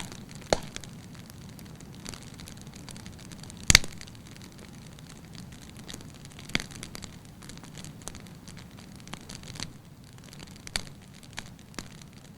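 Fire in a fireplace crackling: irregular sharp pops and snaps over a low steady rumble of the flames, the loudest pop a little under four seconds in.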